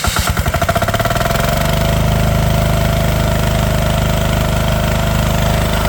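Truper 10 hp diesel water pump engine just after starting: its firing strokes speed up over the first second or two, then it runs steadily.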